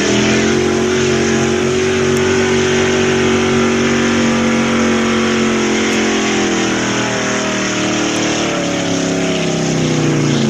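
Two-wheel-drive pulling truck's engine running loud at high revs. Its pitch holds steady for several seconds, then slowly sags toward the end as it loads down.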